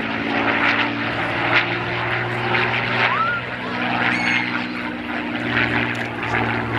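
Supermarine Spitfire PR Mk XI's Rolls-Royce Merlin V12 engine droning steadily in flight, its pitch shifting slightly about halfway through.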